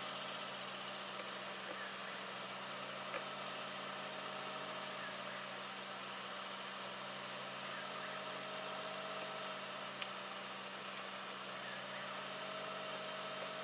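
Car engine idling steadily, with two faint clicks.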